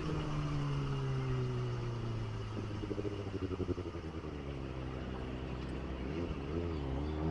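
Kawasaki ZX25R's 249 cc inline-four engine, heard from the rider's position, with its revs falling steadily over the first few seconds as the bike slows, then running low and even, with small wavering rises in pitch near the end.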